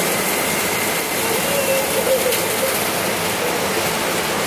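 Heavy rain pouring steadily onto a flooded rooftop and an overhead corrugated metal sheet roof: a constant, even hiss.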